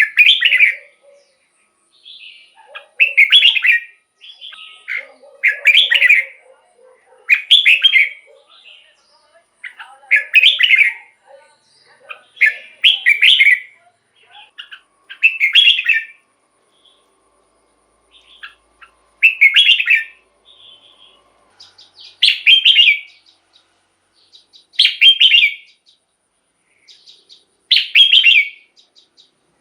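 Red-whiskered bulbul singing: short, bright song phrases repeated about every two to three seconds, with quiet gaps between them.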